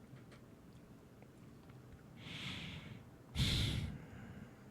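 A man breathing: a soft breath in about two seconds in, then a louder, short breath out.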